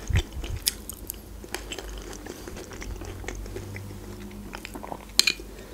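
Close-miked chewing and wet mouth sounds of someone eating soft mashed potato, with scattered small clicks and a sharper click about five seconds in.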